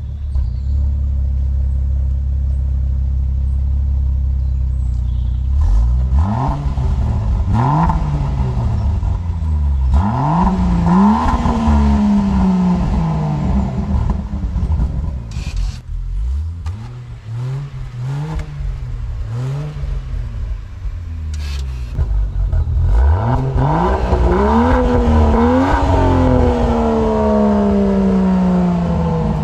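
Land Rover Defender P400's straight-six petrol engine through a Sound Architect valved exhaust with both valves open. It idles steadily for about six seconds, then the revs rise and fall again and again: a few short blips, several longer climbs, and the biggest rise near the end.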